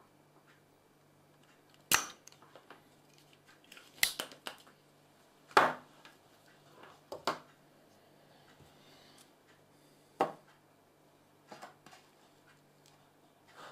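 Small tools handled on a workbench: sharp clicks and clacks, about half a dozen at irregular intervals, over a faint steady hum.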